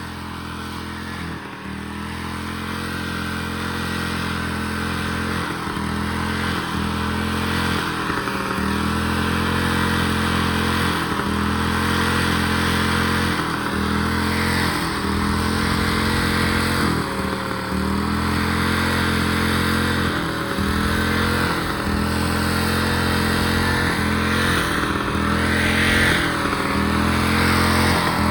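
Tractor engine running at full throttle, a steady drone that sags briefly every few seconds and grows gradually louder.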